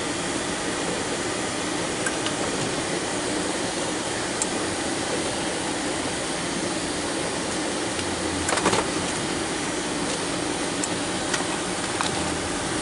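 A vehicle's engine running steadily under a constant rushing noise while clearing snow, with a brief clatter about two-thirds of the way through.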